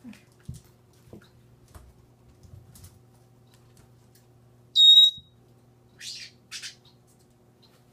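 Pet parrot giving one short, loud, clear whistle about five seconds in, followed by two brief harsh, rasping calls. Faint light knocks come before it.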